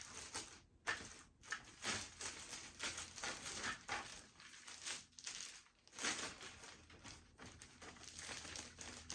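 Packing material being handled: irregular crinkling and rustling of paper or plastic wrapping, in short bursts.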